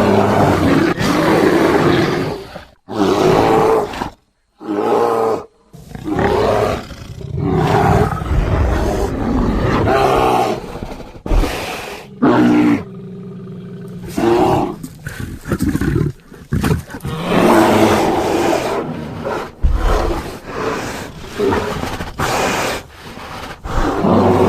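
A series of bear roars and growls, grizzly and black bear recordings cut one after another into a creature's calls, each lasting a second or a few seconds with short silent gaps between them.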